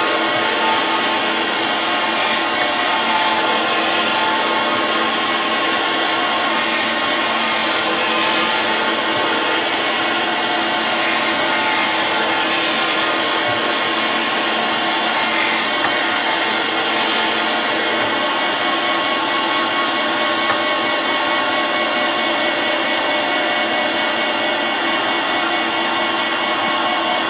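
Surface grinder running, its abrasive wheel grinding a steel wood chipper blade: a steady machine whine with a grinding hiss, taking a light cut of about two thou per pass. Near the end the highest part of the hiss drops away.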